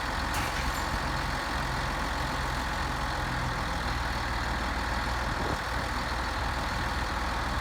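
Heavy diesel engine of farm harvest machinery running steadily, a low even hum with a broad rushing noise above it.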